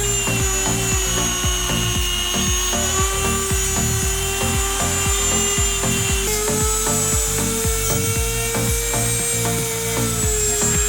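A small power tool running with a steady whine while it rubs and abrades material on a model car part; its pitch steps up slightly about six seconds in.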